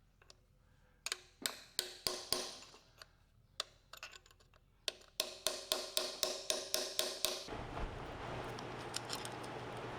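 Light metallic taps and clicks with a short ring, at first scattered, then a quick even run of about four or five a second. About seven and a half seconds in they give way to a steady hissing rush with a low hum.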